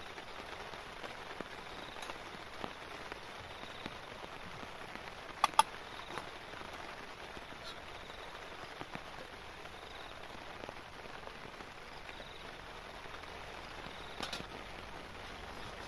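Steady rain falling on the tarp shelter overhead. Two sharp clicks stand out about five and a half seconds in, and a light clatter near the end as the camping kettle's lid is handled.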